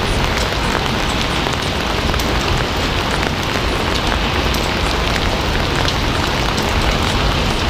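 Steady rain falling as a dense, even hiss, with individual drops ticking through it.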